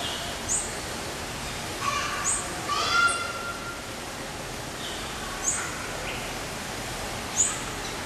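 Several birds calling in an aviary over a steady hiss: short, sharp, very high chirps about five times, mixed with lower chirps, and a longer, lower, rich-toned call about three seconds in.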